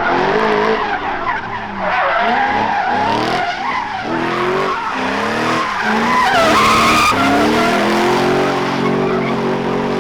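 BMW E46 330Ci drift car's 3.0-litre straight-six revving up and down repeatedly as its tyres squeal through a drift run. Near the end the engine note holds steadier.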